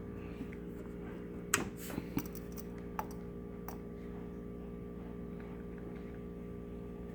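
Steady electrical hum from a bench power supply, with a few light clicks and taps of the clip and metal car base against the container, most of them around two seconds in and one near three and a half seconds.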